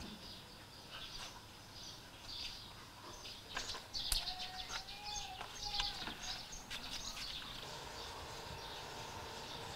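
Quiet outdoor ambience with small birds chirping in short, scattered calls, busiest in the middle. A faint steady hum comes in near the end.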